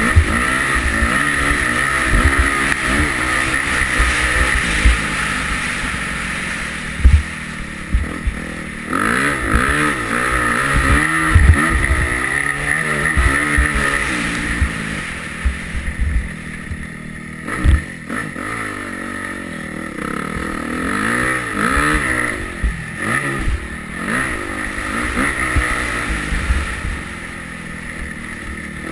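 Yamaha YZ250F single-cylinder four-stroke motocross engine being ridden hard, its pitch repeatedly rising and falling as the rider revs through the gears and backs off, with frequent low thumps.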